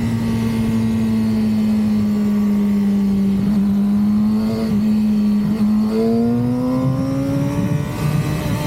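A 2006 Yamaha R6's 600 cc inline-four engine running at steady revs under way. Its pitch sags slightly, then climbs from about six seconds in as the rider opens the throttle.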